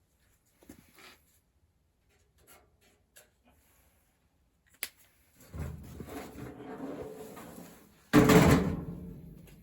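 Sheet-metal ductwork being handled: a few light taps and a sharp click, then a rumbling rattle of the metal and a loud thump near the end that dies away.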